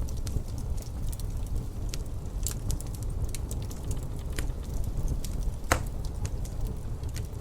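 Wood fire crackling in a fireplace: irregular sharp pops and snaps, one louder pop a little before the end, over a steady low rumble.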